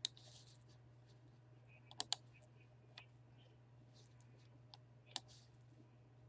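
A few sharp computer clicks, scattered and sparse, with a quick double click about two seconds in, over a faint steady electrical hum.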